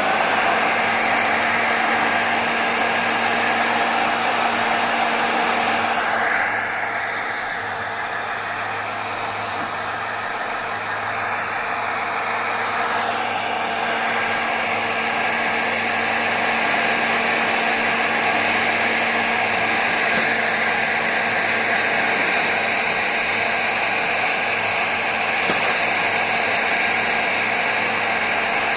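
Hair dryer blowing steadily with a constant whoosh and motor hum, dipping a little in level for several seconds about six seconds in before coming back up.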